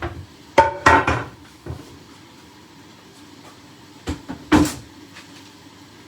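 Kitchen clatter: sharp knocks and clanks in two clusters, about a second in and again about four seconds in, some ringing briefly like metal. A steady low appliance hum runs underneath.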